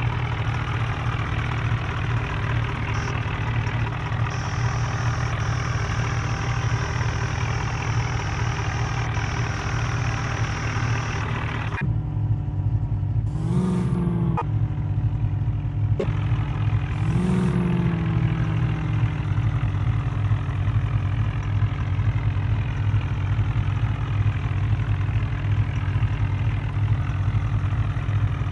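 Diesel engine of an HMT tractor running steadily. After about 12 seconds the sound changes abruptly, and then the engine pitch rises and falls back twice, about four seconds apart, as the throttle is briefly opened.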